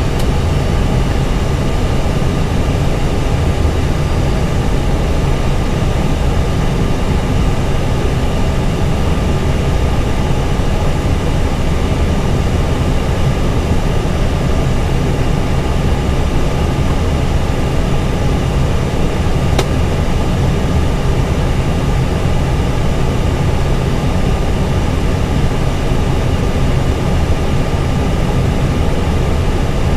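Steady flight-deck noise inside an Airbus A320 cockpit on approach: airflow, air conditioning and engine noise at an even level, with a few faint steady tones. A single short click comes about 20 seconds in.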